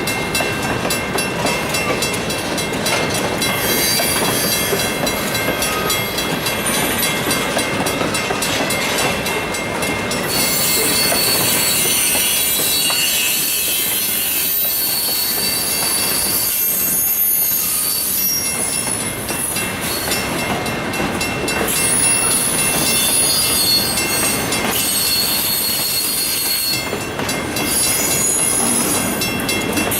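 Freight train cars rolling past at close range: a steady rumble and rattle of wheels on rail, with high-pitched squeal from the wheels running over it.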